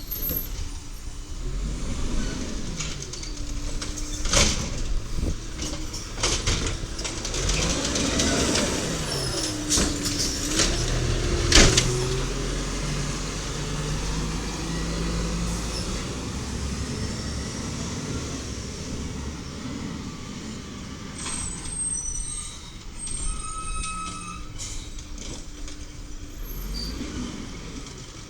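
1993 WhiteGMC diesel garbage truck with an Amrep Octo automated side-loader arm working a trash pickup: the engine revs up and down as the hydraulic arm cycles, with several sharp bangs of the cart and arm. A few short beeps sound about three quarters of the way through.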